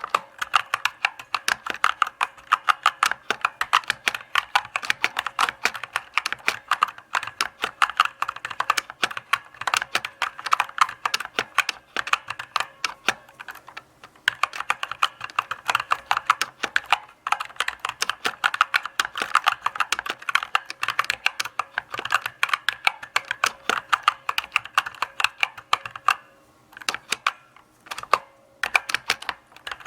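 Typing on a mechanical keyboard: a steady run of key clicks and clacks at an easy, irregular pace, with a couple of brief pauses, one about halfway and one near the end.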